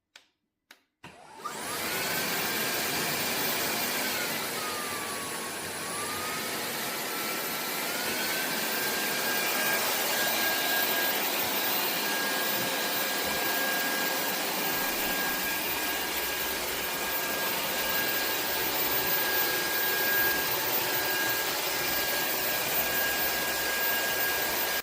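Roborock F25 wet-dry vacuum running its self-cleaning cycle on the dock, suction motor and roller washing. It starts about a second in after a couple of clicks, and its whine dips in pitch, rises again and then holds steady.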